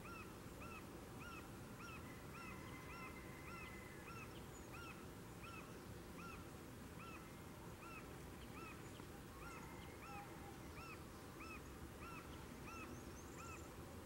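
A bird calling faintly in a long series of short, arched, honking notes, about two a second, thinning out midway and then picking up again, over a steady low background hiss.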